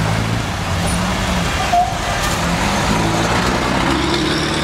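Engines of old cars running at low speed as they drive past one after another, over street traffic. A brief high tone sounds about two seconds in.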